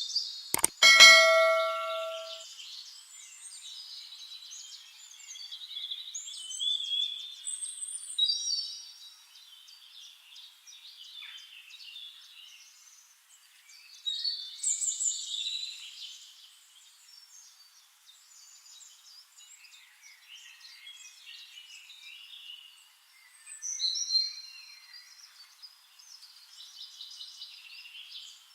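A single metallic clang just under a second in, ringing in several clear tones like a bell for about a second and a half. It is followed by many small birds chirping and trilling in short, high phrases.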